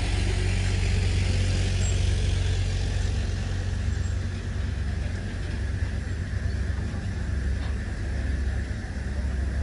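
Steady low rumble with an even hiss above it.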